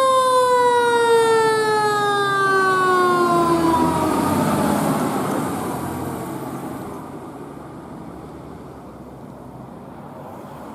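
Fire truck siren wail falling slowly in pitch and fading out about four seconds in, followed by the engine and road noise of the passing vehicle dying away.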